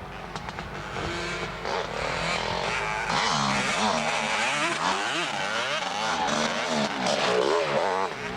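Several motocross motorcycle engines revving up and down, their pitches rising and falling across one another, getting louder about three seconds in.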